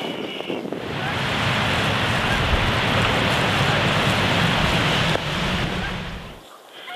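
Wind gusting over the microphone: a loud rushing with a low rumble that builds about a second in, then drops away about a second before the end.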